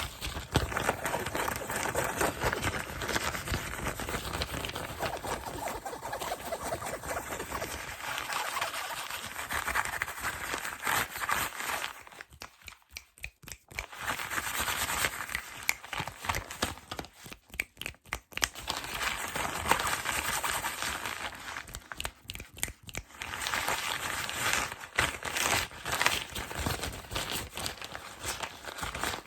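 Fast, aggressive crinkling and rustling of plastic and cardboard packaging, with two short pauses about twelve and seventeen seconds in.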